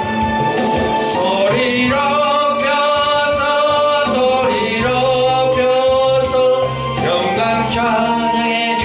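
Gospel song: a singer holding long, wavering notes over instrumental accompaniment.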